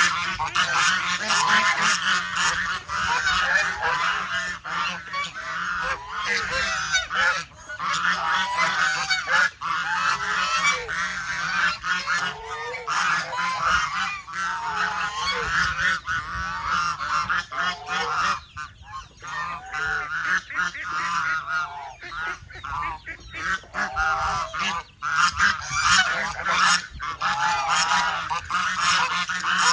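A flock of geese honking and calling continuously over one another, easing briefly about two-thirds of the way through.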